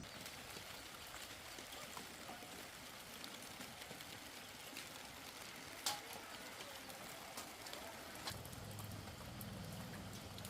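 Faint steady hiss of ambient noise with scattered small clicks, one sharper click about six seconds in; a low hum comes in near the end.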